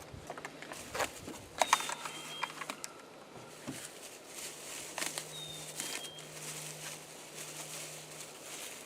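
Zip ties being cut with a knife and packaging handled: scattered clicks and rustles, with a few sharp snaps a little under two seconds in. Faint short bird chirps and a low steady hum run underneath.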